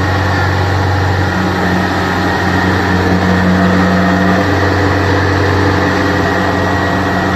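Diesel engine of a Kubota DC70 Plus rice combine harvester running steadily, with a thin high whine over it. A deeper tone swells for about three seconds, starting about a second and a half in.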